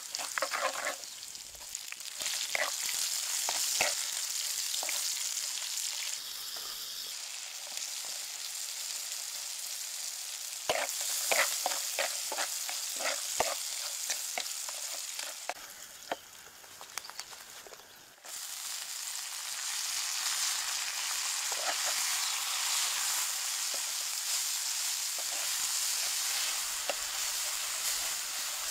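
Chilies and green vegetable stalks frying in hot oil in a pan, a steady sizzle with the clicks and scrapes of a wooden spatula stirring them. The sizzle dies down for a couple of seconds past the middle, then jumps back up suddenly.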